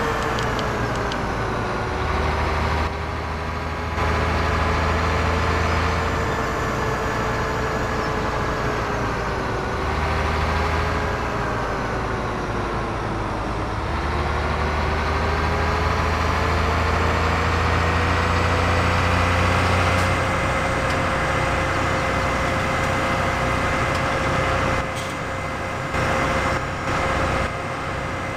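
An engine running steadily, its pitch sagging and recovering a few times, then holding level for the last several seconds.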